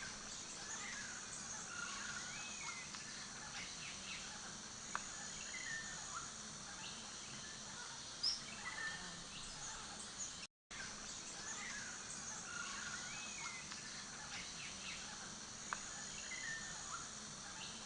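Quiet nature ambience of scattered bird chirps over a steady, high insect hum. It cuts out for a moment about ten seconds in.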